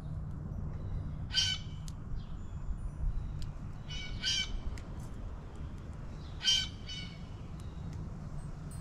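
A bird giving short, harsh squawking calls, about five spread over the few seconds, the loudest one about six and a half seconds in.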